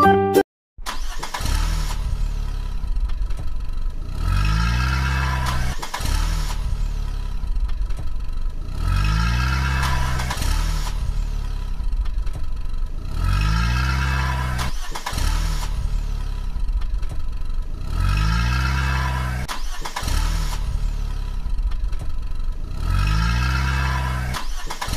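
Car engine sound effect, looped: a steady low engine rumble with the revs rising and falling again about every four and a half seconds, over and over.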